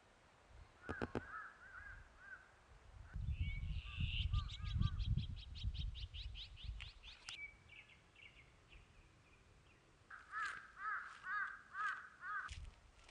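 Birds calling, crow-like caws. A short run of repeated caws comes near the start and another near the end. In between is a fast chattering series of about twenty notes, over a low rumble.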